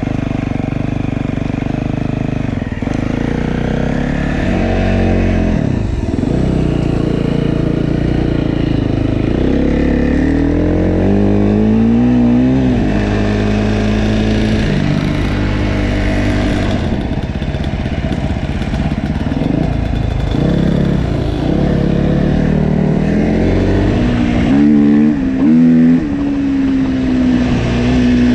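Dirt bike engine running under way, its pitch rising as it accelerates and dropping again several times.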